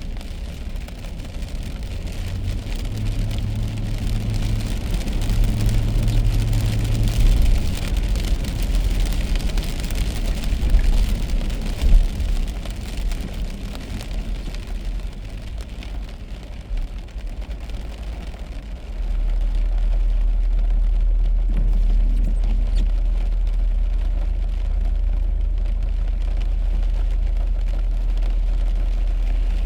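A car driving on wet roads in the rain: a steady hiss of rain and tyres over a low engine and road rumble. About two-thirds of the way through, the low drone steps up and holds louder.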